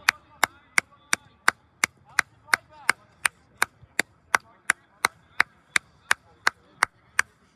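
Steady rhythmic clapping, about three sharp claps a second, stopping shortly before the end.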